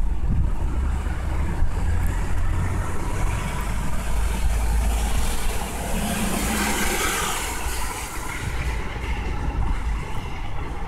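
Street traffic: a low, steady engine rumble, with a hiss that swells and peaks about six to seven seconds in as a heavy vehicle goes by.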